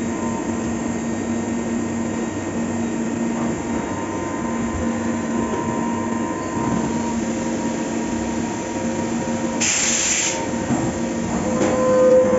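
5-axis CNC milling machine cutting metal: a steady, rough machining noise with a faint steady spindle tone, and a short burst of hiss about ten seconds in.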